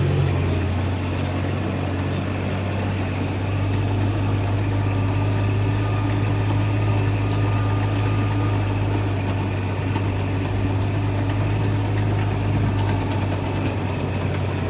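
Vehicle engine running steadily with a deep, even hum.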